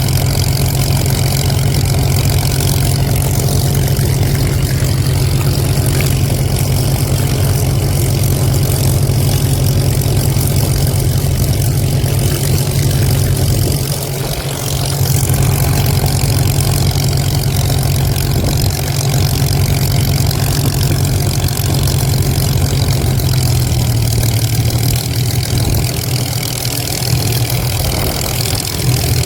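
Vintage warbird's piston aero engine running steadily at idle on the ground, with a brief dip in level about halfway through.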